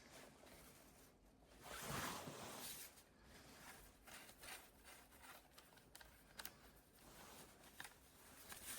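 Near silence, with a faint rustle about two seconds in and scattered small clicks.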